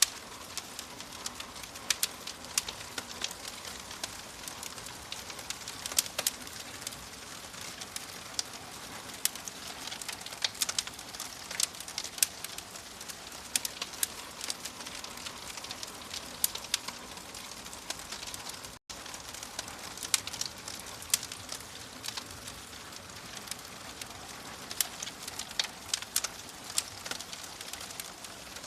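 Wood fire crackling in a fireplace: a steady hiss with frequent sharp pops and snaps. The sound cuts out for an instant about two-thirds of the way through.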